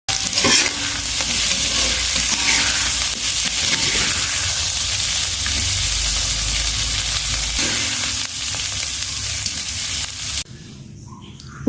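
Food sizzling and frying in hot oil, a loud continuous crackling hiss that cuts off suddenly about ten and a half seconds in.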